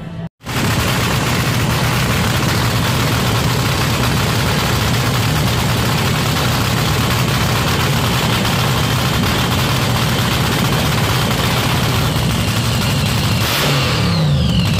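Car engine running steadily under a loud hiss. Near the end the engine's pitch shifts up and down briefly.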